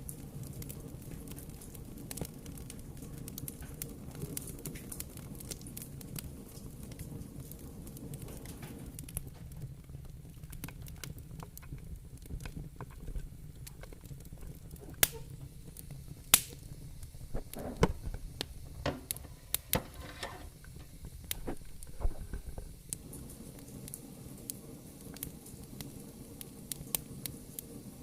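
Fire burning in a fireplace, crackling with a low steady rumble under scattered sharp pops, a few louder pops in the middle stretch.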